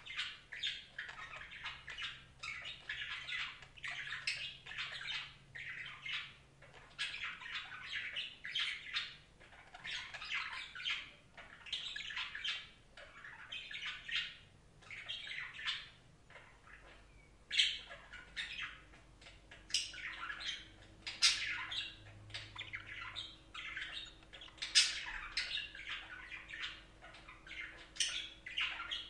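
Budgerigars chattering and warbling continuously, in short bursts of scratchy calls with sharper, louder squawks now and then in the second half.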